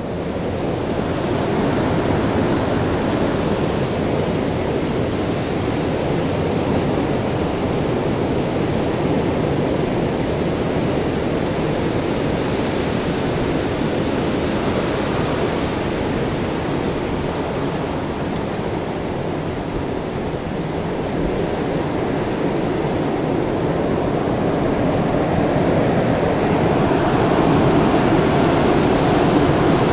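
Storm wind from Hurricane Sandy, a steady rushing noise that eases slightly about two-thirds of the way through and then swells louder near the end.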